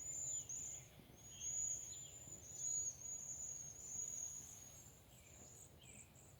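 A flock of small birds calling: high, thin, trilled notes repeated almost without a break, with a few softer falling chirps among them.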